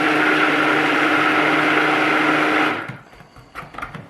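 Small handheld electric blender running steadily as it mixes fragrance into a cup of coloured soap batter. It switches off about two-thirds of the way in, followed by a few light knocks and clicks.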